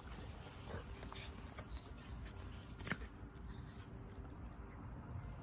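A short run of quick, high bird chirps over a low steady outdoor rumble, with one sharp knock about three seconds in.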